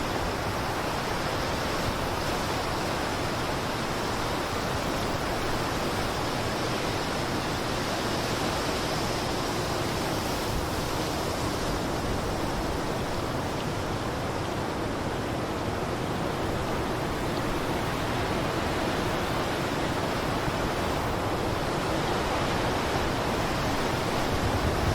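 Blizzard wind blowing as a steady, even rush, growing slightly louder near the end.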